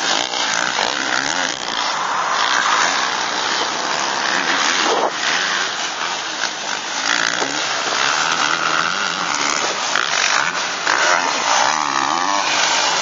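Several motocross bike engines running at once, revving up and down with pitches that rise and fall as the bikes race round the track.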